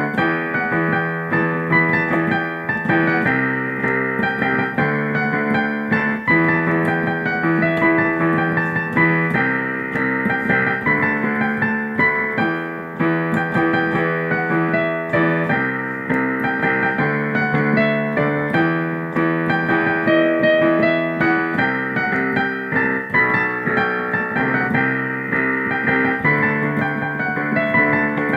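Piano playing an animated series' opening theme song, with full chords under a melody in a steady, lively rhythm.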